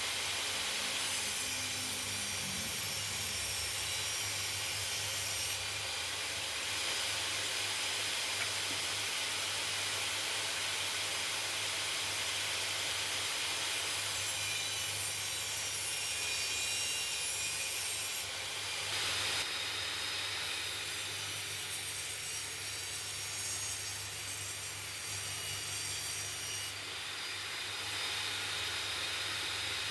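Electric power tool running steadily while working plywood, a continuous whirring noise with a slight change in tone a few times.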